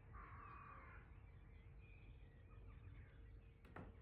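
Faint distant bird calls over a near-silent background, with a soft click near the end.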